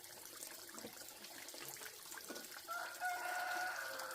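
A rooster crowing once, a long held call that starts a little before the end.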